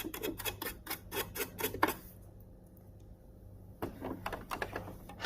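Quick, irregular light clicks and scrapes from hands and cleaning tools working on a Singer Quantum Stylist 9960 sewing machine during cleaning. They come in two runs, with a pause of nearly two seconds in the middle.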